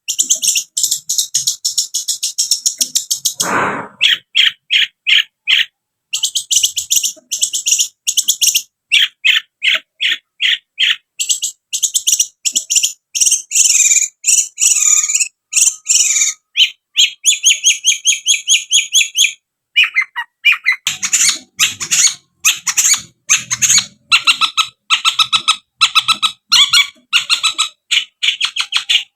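Long-tailed shrike (cendet) singing a fast, scratchy chattering song of rapidly repeated high notes, with short pauses between phrases. About three and a half seconds in, it gives a brief lower note that sweeps downward.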